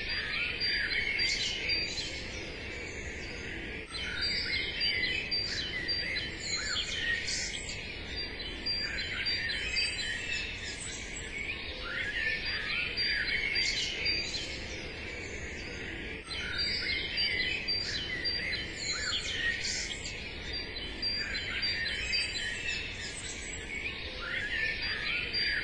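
Many small songbirds chirping and singing at once, a continuous birdsong ambience over a faint low background hum, with short dips in level about 4 and 16 seconds in.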